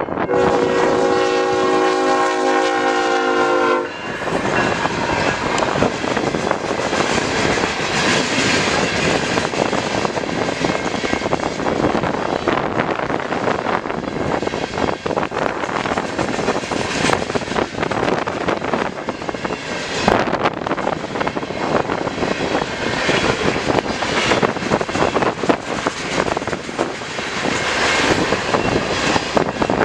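A diesel locomotive's horn sounds a chord for about three seconds and cuts off about 4 s in. Then a freight train rolls past: loud, steady rail and wheel noise with scattered clicks and clatter from the cars.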